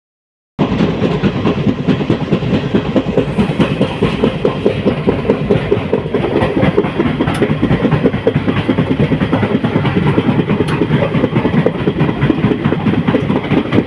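Guwahati–Silchar Express passenger train running, its wheels clattering steadily on the rails.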